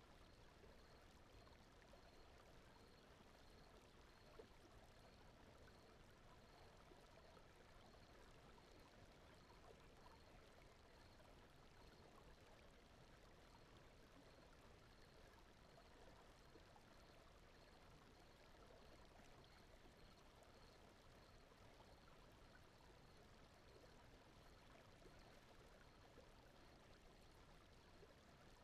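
Very faint, steady flowing-water ambience under a soft noise bed, with a faint high pulse repeating evenly through it.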